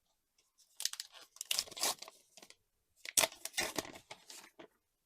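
Foil trading-card booster pack wrapper being torn and crinkled, in two bursts of crackling.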